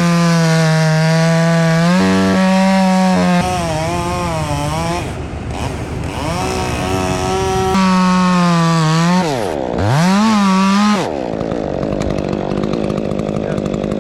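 Chainsaw at full throttle cutting through an elm limb. Its pitch sags and wavers as it bogs in the cut. About ten seconds in it briefly drops toward idle and revs up again, then cuts off about a second later, leaving a lower steady engine hum.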